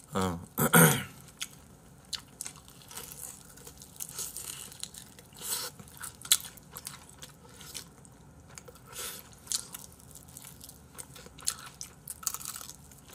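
Fried chicken being bitten and chewed close to a microphone, with scattered short crunches and mouth clicks. A brief burst of voice comes in the first second.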